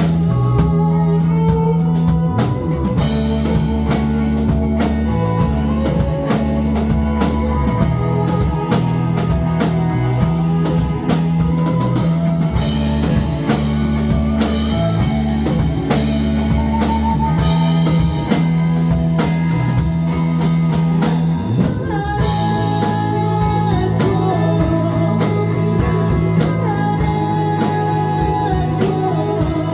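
Indie rock band playing live: drum kit, bass and electric guitar, with singing. The arrangement shifts about two-thirds of the way through, when the heavy bass notes drop out.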